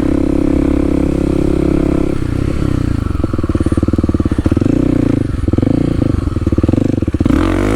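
Kawasaki KLX300's single-cylinder four-stroke engine running under way, steady at first, then choppy and uneven as the throttle is worked, the revs dropping and rising several times and climbing near the end.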